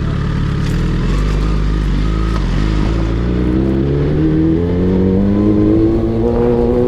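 Sport motorcycle engine pulling away. It runs low for the first few seconds, then its pitch climbs steadily as the bike accelerates.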